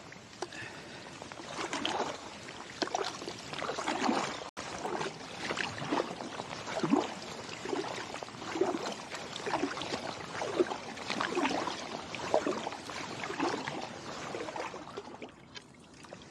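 Kayak paddle strokes through slushy river water: a regular swish and splash about once a second, with water trickling in between.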